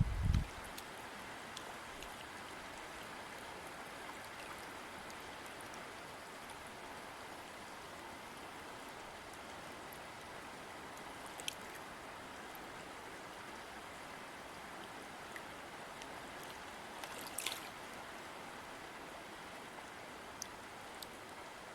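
A river flowing, a steady rush of water with small splashes, including a brief one about halfway through and another a few seconds later. A low thump sounds right at the start.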